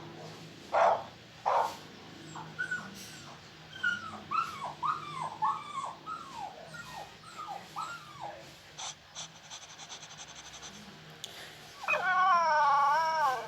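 Puppies barking twice, then a run of short, falling whimpers and yips, and near the end one long, wavering whine.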